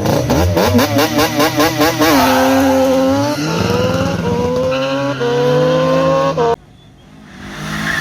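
A high-revving engine bouncing rapidly up and down against its limiter at the start line, then launching and accelerating hard, its pitch climbing and dropping at each upshift. It cuts off abruptly near the end.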